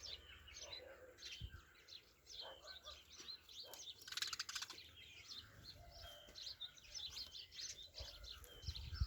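Sparrows chirping in quick, repeated short notes, with one harsh, buzzy bird call about four seconds in.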